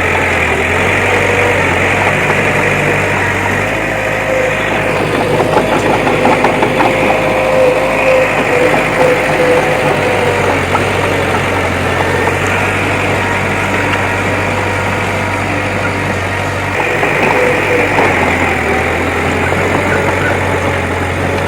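Diesel engine of a bulldozer running steadily, with a rapid clattering for a few seconds a little way in.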